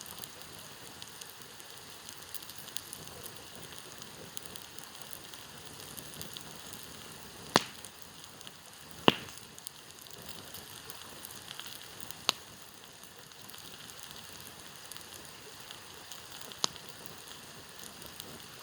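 Campfire crackling, with four sharp wood pops standing out among smaller ticks, over the steady rush of a stream.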